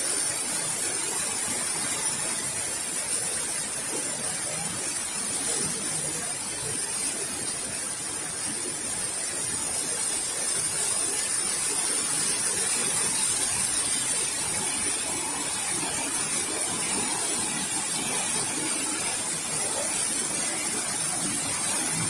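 Heavy monsoon rain pouring down steadily, an even rushing hiss of rainfall and running water on a flooded street.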